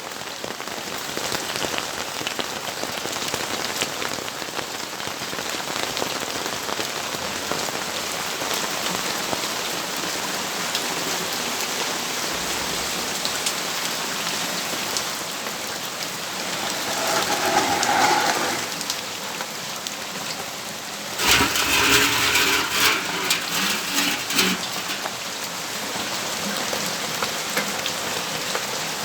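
Steady rainfall pattering on surfaces. Just past halfway a louder swell rises and fades. A little later a sudden, louder, uneven burst lasts about three seconds.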